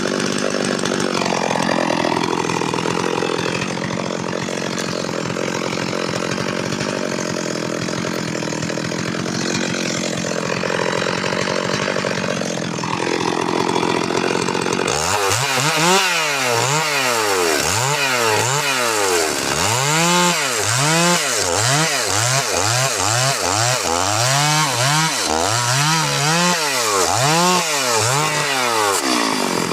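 Stihl MS 382 two-stroke chainsaw running at steady high speed for about fifteen seconds, its pitch wavering slightly as if under load. It is then revved up and down over and over, a little more than once a second.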